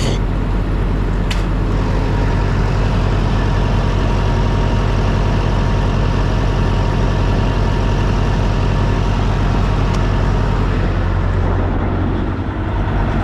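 Semi truck's diesel engine running steadily with a low, even hum; the low note shifts slightly about twelve seconds in.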